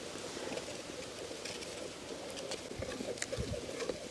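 A bird calling against a steady outdoor background, with a few faint clicks.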